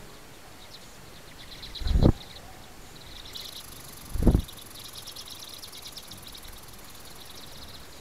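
Songbirds at a feeder calling in quick, trilled series of high chirps. Two short low thuds come about two and four seconds in.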